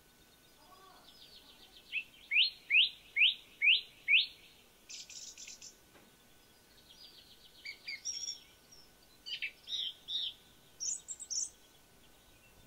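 A songbird singing: a row of five loud rising notes about two seconds in, then a short high trill and a run of varied, quieter chirps over the second half.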